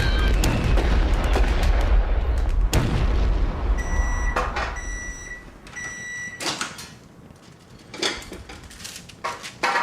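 Fireworks crackling and banging over a low rumble, dying away about halfway through. Then three short electronic beeps at one steady high pitch, about a second apart, and a few light knocks.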